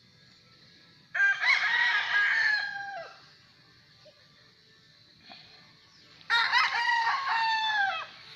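Gamefowl roosters crowing: two long crows, about a second in and about six seconds in, each falling in pitch at the end.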